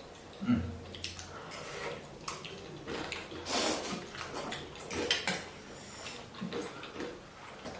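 Eating a bowl of chicken thukpa noodle soup: irregular bouts of slurping broth and noodles, with occasional clinks of utensils against bowls and a low thump about half a second in.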